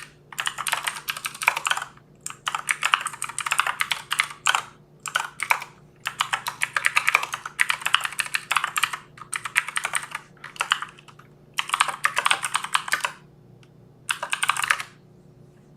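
Typing on a computer keyboard: fast runs of key clicks broken by short pauses, over a faint steady low hum.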